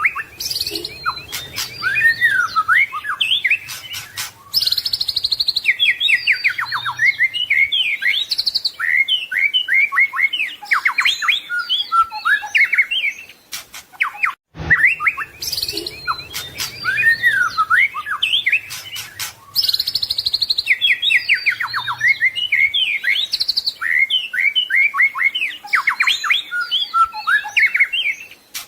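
White-rumped shama (murai batu) singing a rapid, varied song of whistles, chirps and trills. The same recording of about 14 seconds plays twice, with a short break between.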